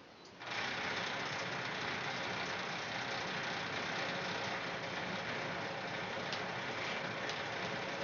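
Engine running steadily, coming in abruptly about half a second in, with a few light ticks near the end.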